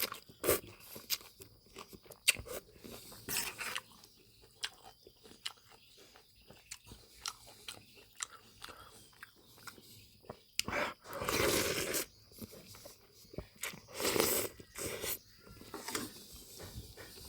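A person chewing and biting food close to the microphone, with many short wet clicks and crunches and a few longer noisy bursts about eleven and fourteen seconds in.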